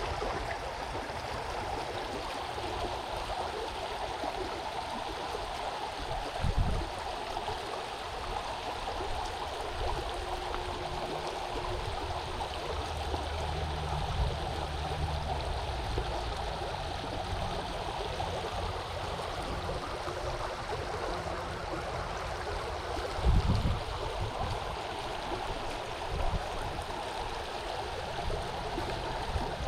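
Creek water running, a steady rushing wash, with two brief low bumps, one about a quarter of the way in and one near the three-quarter mark, and a faint low hum in the middle.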